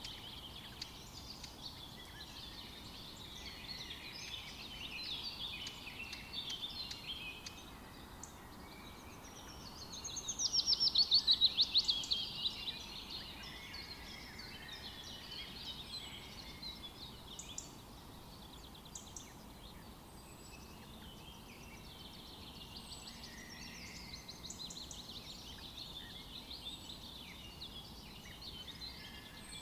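Several songbirds singing over one another, with one loud, fast trill of rapidly repeated notes about ten seconds in.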